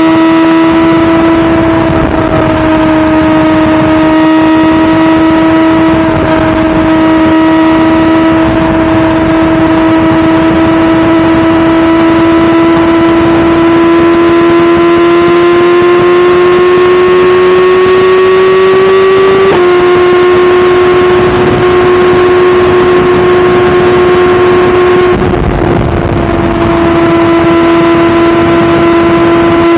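2017 BMW S1000RR's inline-four engine pulling steadily at speed, its note slowly climbing, then dropping sharply with an upshift about two-thirds of the way through. The note eases briefly near the end before it comes back.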